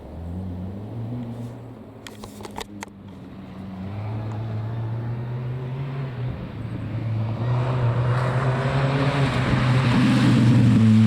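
Rally car engine running at steady revs, growing louder as it approaches, with rising tyre and road noise in the last few seconds. A few sharp clicks about two seconds in.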